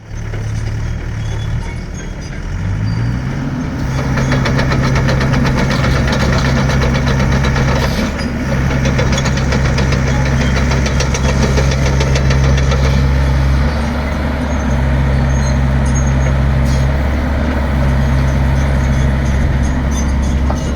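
XCMG XE60DA midi excavator's diesel engine running, stepping up from idle to higher revs about two to three seconds in, then held there with several brief dips in revs, with a fast clattering over the middle part.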